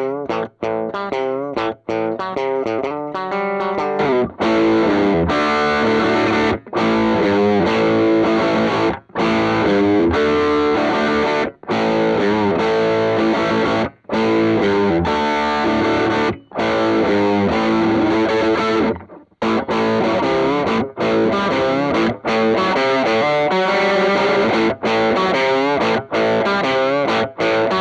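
Electric guitar played through a Caline Leon Drive, an OCD-style overdrive pedal, giving a distorted tone. Quieter picked playing for the first few seconds, then louder strummed chords broken by short stops.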